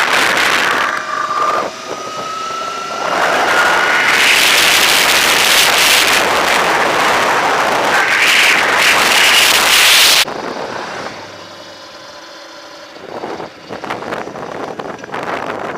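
Heavy wind noise buffeting the microphone while riding a Throne SRPNT electric motorbike, with a faint whine rising slowly in pitch early on. The wind noise drops away suddenly about ten seconds in.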